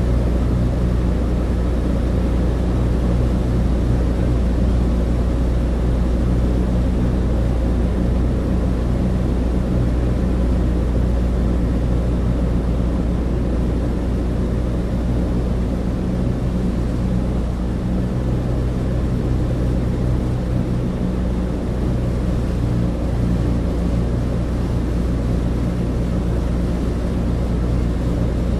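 Cabin drone inside a Douglas DC-3 in flight: the steady, low hum of its twin piston engines and propellers, unchanging throughout.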